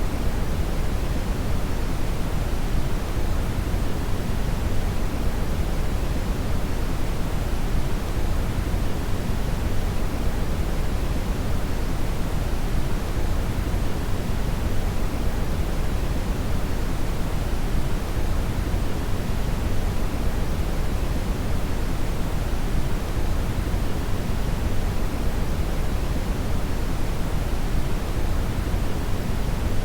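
Steady synthetic brown noise (red noise): a continuous deep hiss, strongest in the lows and rolling off toward the highs, with no change throughout.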